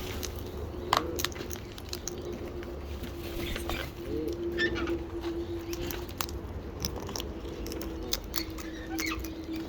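Parrots cracking and crunching seed in their beaks: a run of irregular sharp clicks and crunches, with a couple of brief soft chirps and a steady low hum underneath.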